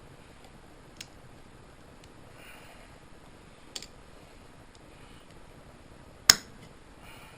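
Three sharp, isolated clicks from hand tools knocking on the Kohler engine during teardown, the loudest about six seconds in.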